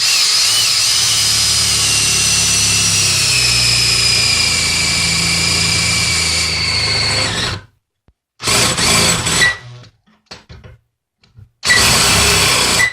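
Electric drill with a 1/2-inch twist bit boring into a metal electrical box cover: one long run of about seven and a half seconds, its whine falling slightly in pitch, then two short bursts of about a second each.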